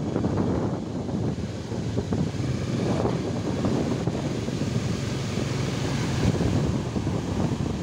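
Strong wind buffeting the microphone over the steady rush of large ocean waves breaking on the beach.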